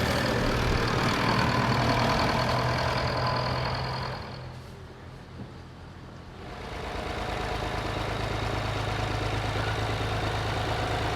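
Vintage tractor engine running steadily, fading down about four seconds in and coming back up a couple of seconds later.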